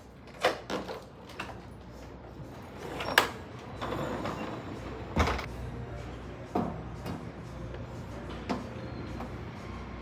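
Kitchen handling sounds: a series of separate knocks and clunks, about seven, as food and containers are picked up, packed and set down.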